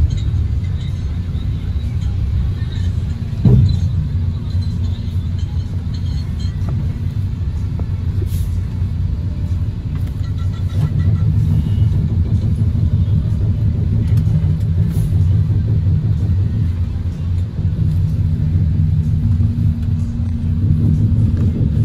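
Inside the cabin of a moving Philippine Rabbit bus: a steady low rumble of engine and road, with one sharp thump about three and a half seconds in.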